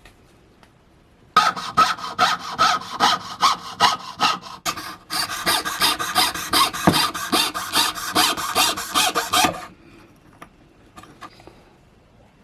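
A hand tool worked in quick back-and-forth strokes, about three to four a second, with a short break about halfway; the strokes stop a few seconds before the end.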